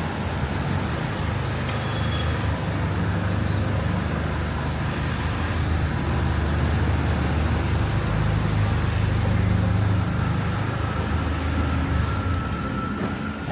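A motor vehicle's engine running close by, a steady low hum that is loudest around the middle and eases near the end, with a faint rising whine at the very end.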